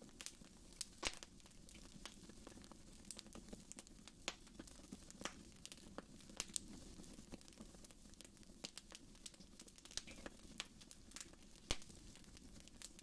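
Wood fire in a fireplace crackling: irregular sharp pops and snaps over a soft, steady hiss, with the loudest pops about a second in and near the end.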